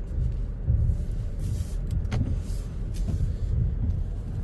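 Low, uneven rumble inside the cabin of a 2022 Toyota RAV4 Hybrid moving slowly through snow, with a few faint knocks.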